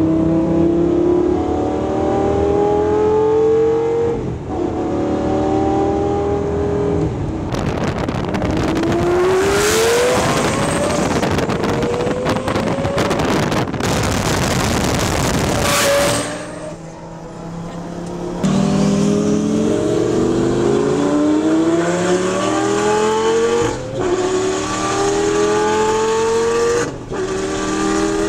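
Twin-turbo Lamborghini Gallardo engine accelerating hard through the gears, its pitch climbing in each gear and dropping at every shift. Partway through comes a loud high-speed pass with a few sharp cracks.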